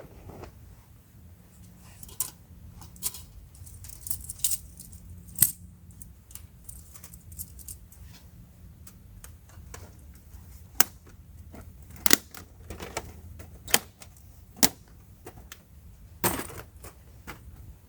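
A string of irregular sharp clicks and taps of small hard objects being handled, the loudest about five, eleven, twelve and fourteen seconds in, with a brief rattle near the end.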